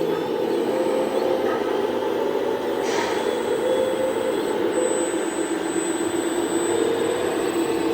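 1/14-scale radio-controlled earthmoving model running, a steady motor whine with a short hiss about three seconds in.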